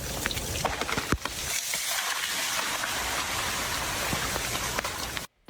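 Freezing rain falling steadily, with many sharp ticks of ice pellets and drops striking ice-coated surfaces; it cuts off suddenly near the end.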